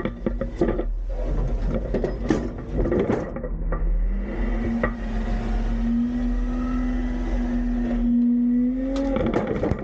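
Autocar-Heil Freedom front-load garbage truck handling a recycling container: repeated clanks and bangs for the first few seconds, then the diesel engine revs up and holds a steady pitch to drive the hydraulics. It drops back with more clanking near the end.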